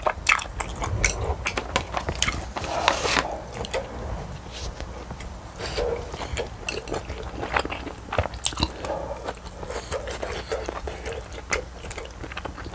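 Close-miked wet chewing of a mouthful of spicy tteokbokki, a quick run of mouth clicks and smacks, busiest in the first few seconds.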